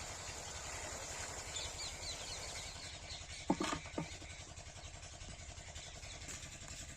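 7HP diesel water-pump engine running steadily with a fast low pulse, with two sharp knocks about halfway through.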